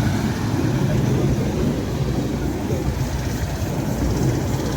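DEMU diesel train running close by, a steady low rumble.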